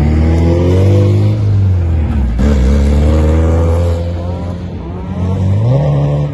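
Drift car's engine revving hard, its pitch climbing and falling several times as the throttle is worked, with a sharp dip about two and a half seconds in.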